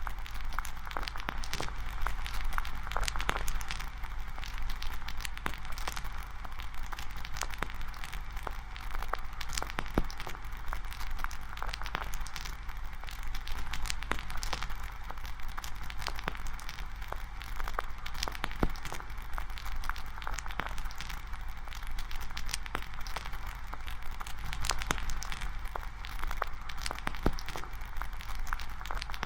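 Campfire crackling: a steady stream of irregular snaps and pops from burning wood.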